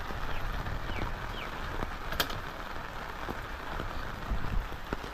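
Heavy rain falling steadily, with a few faint high chirps early on and a single sharp click about two seconds in.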